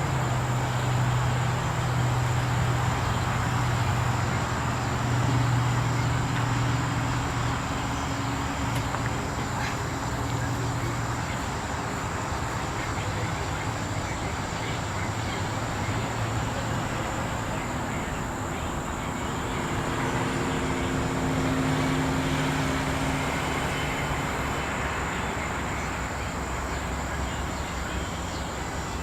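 Evening outdoor ambience: a steady high-pitched insect chorus, with a low engine-like hum that is stronger for the first ten seconds or so and swells again a little past the middle.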